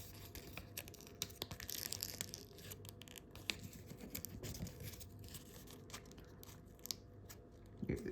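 Sheet of A4 paper being folded and creased by hand: faint, intermittent rustling with small crackles and clicks.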